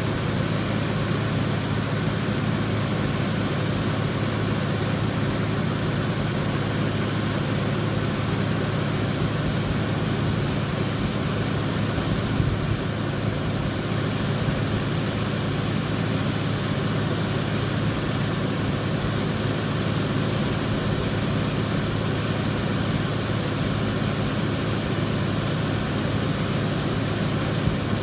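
Mazda RX-7 rotary engine idling steadily.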